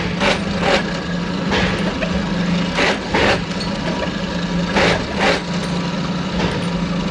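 Factory machinery running with a steady hum, broken by short hissing bursts at uneven intervals, several of them in quick pairs.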